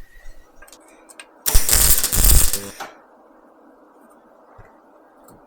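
A few light metallic clicks, then a welder's arc crackling and hissing in one burst of about a second and a half, tacking a stainless steel patch over a rusted-through hole in a motorcycle exhaust.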